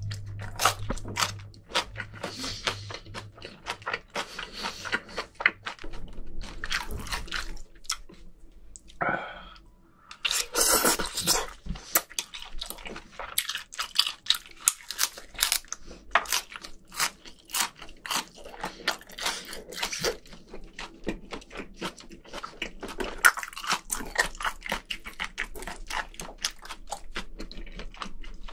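A person chewing and crunching food close to the microphone: many quick, wet mouth clicks and crunches, with a short pause about nine seconds in.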